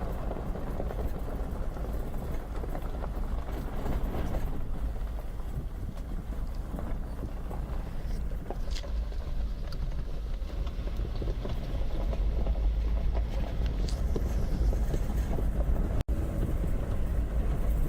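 Car driving on a dusty dirt road: steady engine and tyre rumble with a heavy low end, growing a little louder in the second half.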